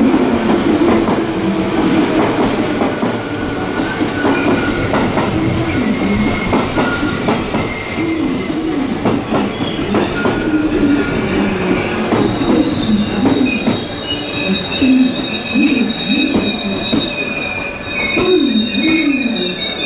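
A Yamatoji Line electric train moving along the platform, its wheels clattering over rail joints and squealing steadily. High-pitched squeals join in about twelve seconds in.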